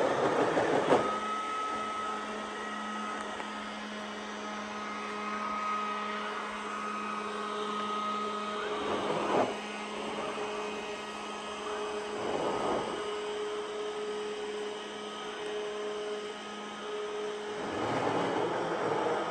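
iRobot Roomba s9+ robot vacuum running: a steady motor hum and whine with a few held tones. It swells into a louder rush about a second in, twice more in the middle and again near the end.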